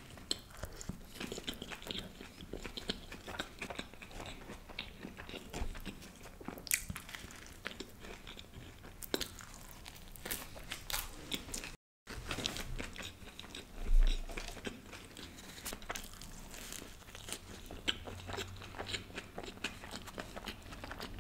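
A person biting and chewing toasted spinach and corn garlic bread close to the microphone: soft crunches and many small mouth clicks. There is a very short break about halfway through and a dull thump a couple of seconds after it.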